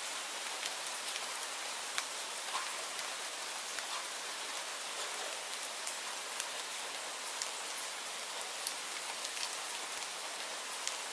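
Steady rainfall, an even hiss with scattered louder drops ticking on a surface here and there.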